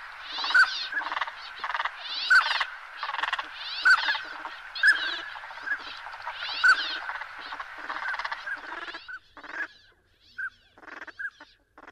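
Bulbul singing: short repeated song phrases about once a second, thinning to sparser single notes in the last few seconds.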